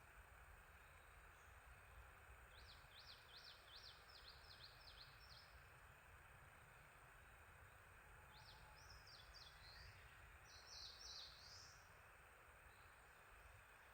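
Faint songbird song: a quick run of about eight high, down-slurred notes, then, after a pause, a more varied warbling phrase, over a steady background hiss.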